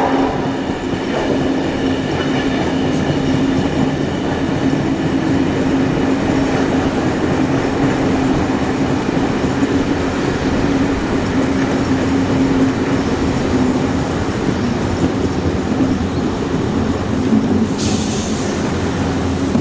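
Steam-hauled train running along the track, with a steady drone over continuous rail noise. The sound changes abruptly near the end.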